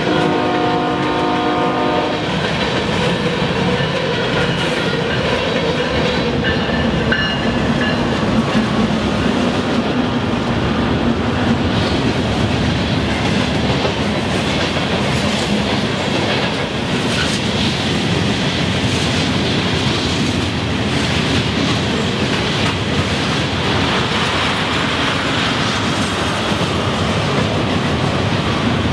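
Freight cars rolling past close by, a steady rumble of wheels on rail with clickety-clack. At the start a locomotive horn sounds one chord for about two seconds.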